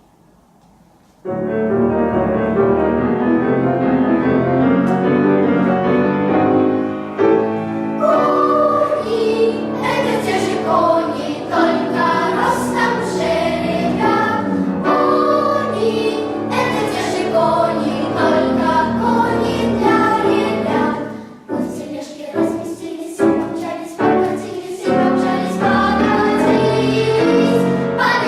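Children's choir singing a lively song with piano accompaniment and percussion. The music starts about a second in; the first several seconds are instrumental, and the voices and sharp percussion strikes come in around eight seconds in.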